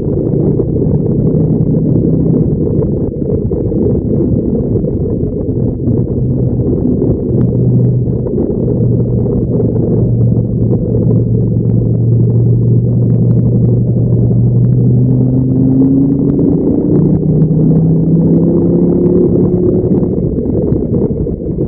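Dodge Viper SRT10's V10 engine lapping a race track. It holds a steady lower pitch through a corner around the middle, then climbs in pitch as the car accelerates hard out of it near the end.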